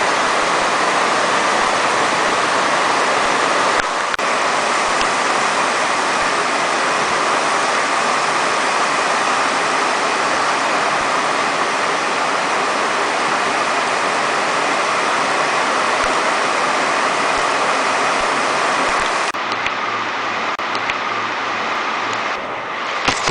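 Loud, steady rush of water in a heavy rainstorm. About nineteen seconds in the hiss turns slightly duller, and a few sharp knocks follow near the end.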